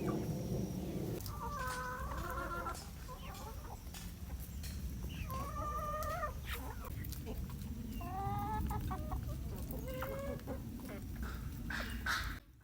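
Chickens clucking: about four drawn-out, wavering calls a few seconds apart over a steady low rumble, with scattered clicks. The sound cuts off just before the end.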